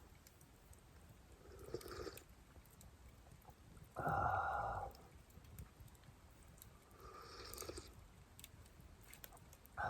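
A person eating noodle soup, slurping and chewing, mostly faint, with a louder burst about four seconds in.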